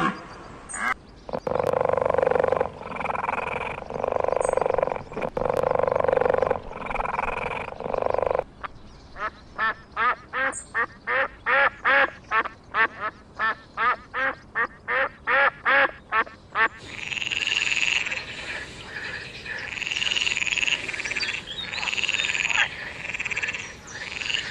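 Animal calls in three different stretches: separate calls about a second long, then a fast run of short calls repeated two to three times a second, then higher-pitched calls.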